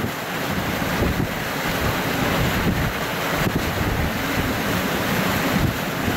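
Hurricane-force wind gusting steadily, with heavy wind buffeting on the microphone.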